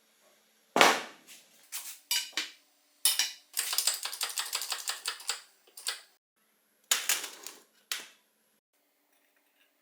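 Metal bicycle parts and hand tools being handled: sharp clinks and knocks, with a fast run of ratchet-like clicks in the middle.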